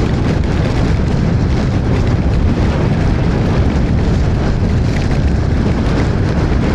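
Steady, loud wind buffeting on the microphone of a rider on a moving electric scooter, a deep rumbling roar with rain and road hiss underneath.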